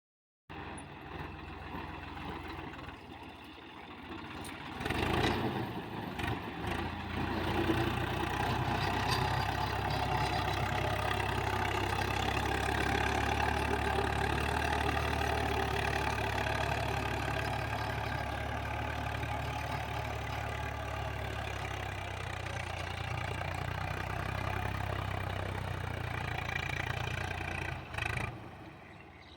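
Swaraj 855 FE tractor's three-cylinder diesel engine running steadily, briefly louder about five seconds in, and dropping away near the end.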